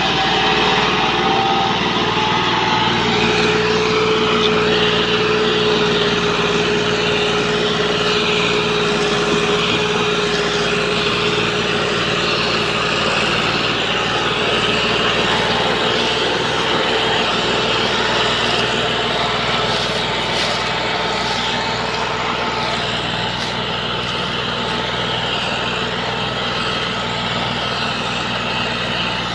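Tractor's diesel engine running steadily under heavy load, hauling a trolley of sugarcane. A steady whine sits over the engine note for the first half.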